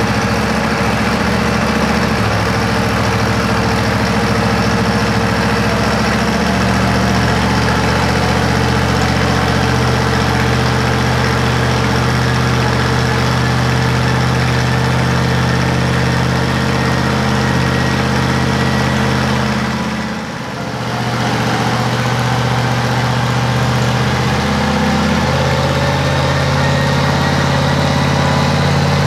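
Twin-turbocharged Chevy 350 small-block V8 running steadily at a low, even speed, with a faint whine slowly rising in pitch through the second half. Its sound drops briefly about two-thirds of the way in.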